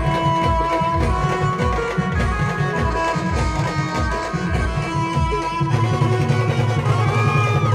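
Khandeshi wedding band playing an instrumental passage of a folk song: held melody notes over a quick, steady drum beat. About six seconds in, a long low note is held.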